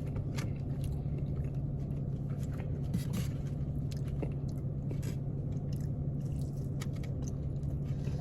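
A person chewing a mouthful of fried chicken close to the microphone, with scattered soft crunches and clicks, over a steady low hum.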